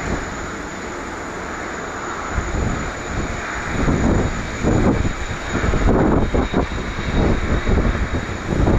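Boeing 787-10 jet engines running at taxi power: a steady jet whoosh. From about four seconds in, irregular louder low rumbling surges come in.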